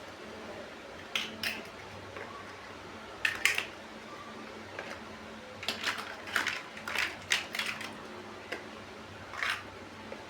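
Plastic toy building bricks clicking and knocking as they are handled and pressed together, in short clusters of clicks with pauses between, over a faint steady hum.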